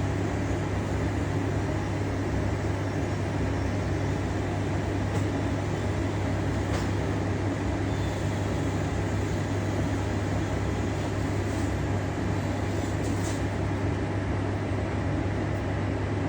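A small motor running steadily: a constant low hum under an even rushing noise, with a few faint clicks.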